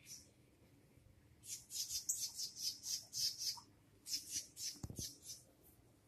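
A bird calling in two runs of quick, high-pitched chirps, several a second, with a brief low thump during the second run.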